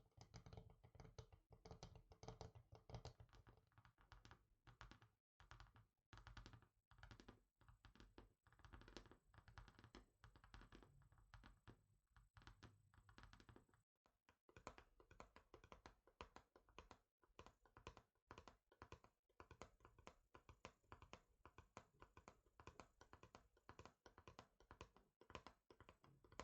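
Fingers tapping rapidly and lightly on a surface, many quick taps a second, pausing briefly about five seconds in and again near the middle.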